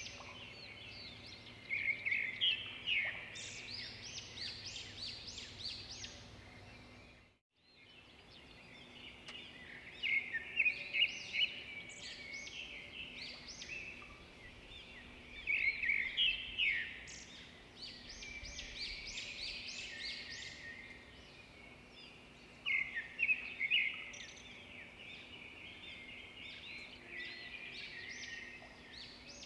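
Birds chirping in a dense chorus of quick, high notes that come in louder clusters, with a brief break about seven seconds in.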